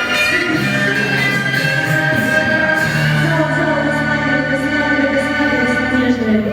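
A singer holding one long sustained note over backing music; about halfway through, sustained low organ-like chords come in beneath the voice.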